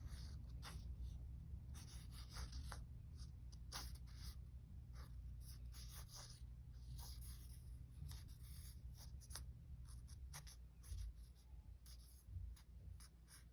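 Faint, irregular scratching strokes of a child drawing on a surface, over a steady low hum.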